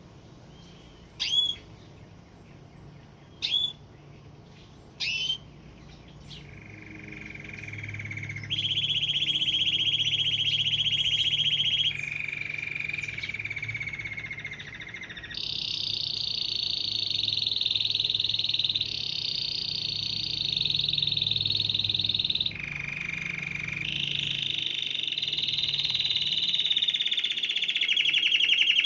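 Canary singing: a few short, sharp chirps, then, from about six seconds in, a string of long rolling trills, each held for two to four seconds before it switches abruptly to a new pitch.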